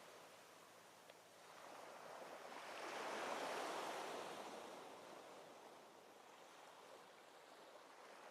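Small, calm sea waves washing onto a beach: one wave swells up about three seconds in and then recedes in a soft wash.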